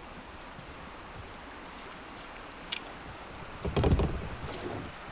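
Water lapping against a kayak, with a single click just before three seconds in, then a loud cluster of knocks against the hull at about four seconds and a lighter one just after.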